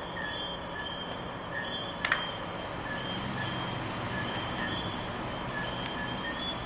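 Campfire burning with a steady hiss and crackle and one sharp pop about two seconds in, under short high chirps repeating every half second or so, like night insects.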